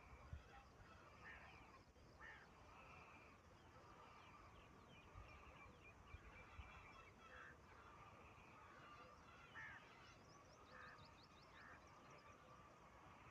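Faint bird calls: short notes every second or two, with a quick run of rapid, high chirps near the end, over a low hiss.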